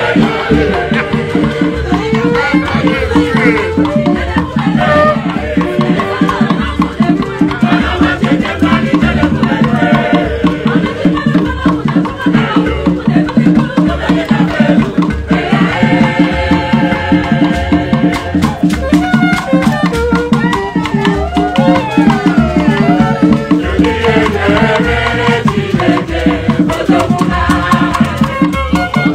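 Live Igbo ogene band music: a steady beat of metal gong, shakers and drums under singing voices.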